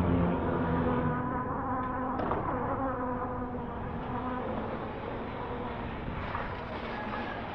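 Electric bike hub motor buzzing under power, several steady pitches that slowly fade, over road and wind noise.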